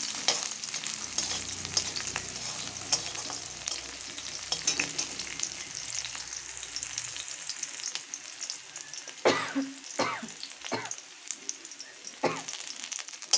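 Sliced onions and dried red chillies sizzling in hot oil in a karahi, with a steel spatula scraping and tapping the pan as they are stirred. A few louder scrapes come between about nine and twelve seconds in.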